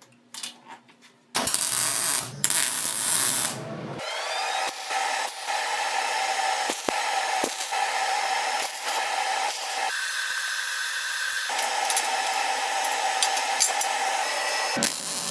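Angle grinder running against steel, beveling and cleaning up the edges of a steel frame before welding. It starts loudly about a second and a half in, spins up again around four seconds in, and changes abruptly a few times.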